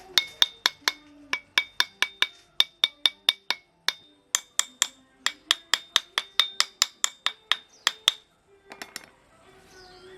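A hammer striking metal in quick, even blows, about four a second, each blow ringing. The blows pause briefly about four seconds in, stop a little after eight seconds, and are followed by a few light taps.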